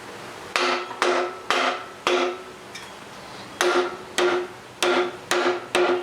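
Nine hard hammer blows on a Buick 455 V8's cast-iron cylinder head, in a run of four and then a run of five, each with a short metallic ring. The head does not budge because one head bolt is still in place.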